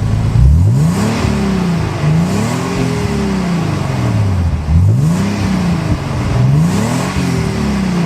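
Nissan 300ZX's V6 revved up and let fall back about five times, heard through a Labree Motorsports 2+0 stainless cat-back exhaust with an H-pipe resonator and 2.5-inch pipes. The engine is warm.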